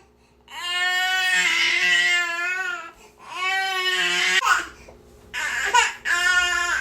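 Infant crying: long, high-pitched wails broken by short gasps for breath, about four cries, the first lasting some two and a half seconds.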